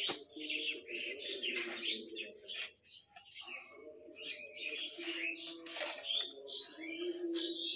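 Small birds chirping busily: many short, quick chirps following one another with brief lulls.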